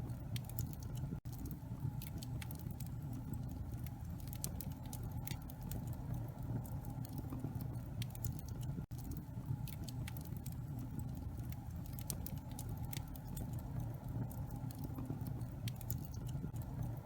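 Wood fire burning in a fireplace, crackling with frequent small pops over a steady low rumble.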